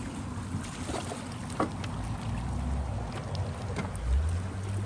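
Water lapping around a bamboo river raft as it is poled along, under a low rumble, with a sharp knock about one and a half seconds in.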